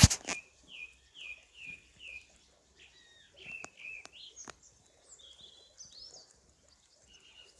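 A songbird singing: a run of about five short, evenly repeated downslurred chirps, then more varied, higher notes. Right at the start there is a brief, loud rustle, the loudest sound here.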